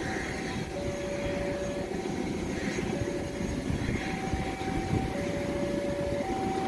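Railway level crossing warning alarm sounding two alternating electronic tones, high and low, each held about a second, over a steady low rumble of an approaching train.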